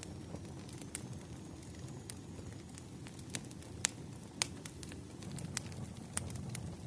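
Campfire burning: a steady low rush of flames with scattered sharp crackles and pops from the wood, two louder pops near the middle.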